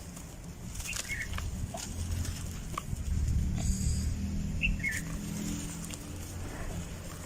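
Dry red dirt crumbling in scattered crackles and clicks. Under it runs a low hum that swells around the middle, and there are two brief high chirps.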